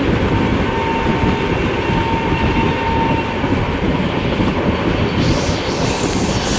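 A moving train: a steady, loud rumble of wheels and carriage noise, with a faint thin whine for a couple of seconds near the start.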